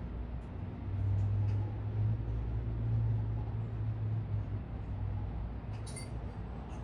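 Low engine rumble of a passing road vehicle in city traffic, swelling about a second in and fading after about four and a half seconds, over steady traffic noise. A short high chirp, likely a bird, comes near the end.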